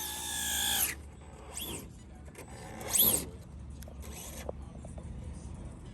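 RC drag car motor blipped in short revs, a whine rising and falling with each burst: one longer rev near the start, then three quicker blips.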